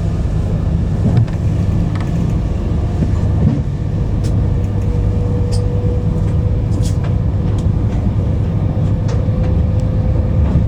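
Avanti West Coast passenger train running, heard from inside the carriage: a steady low rumble with a faint steady whine and scattered light clicks and rattles.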